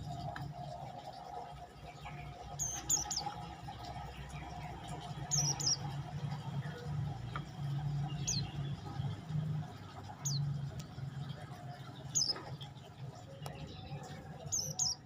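Prenjak lumut, a small songbird, giving short, high chirps that fall in pitch, repeated every second or two, over a steady low hum.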